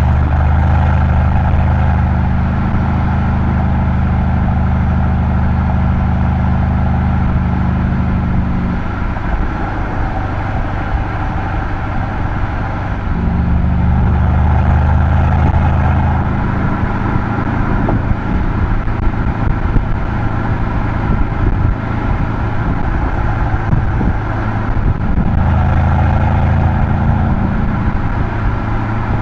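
Mercedes-AMG C63's twin-turbo V8 (M177) exhaust droning while driving at a steady pace, with tyre and road noise. The drone holds for the first nine seconds, sinks under the road noise, and comes back twice.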